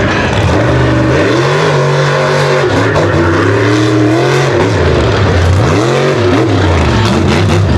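Mega truck engine revving hard, its pitch climbing about a second in, then dipping and climbing again several times on and off the throttle.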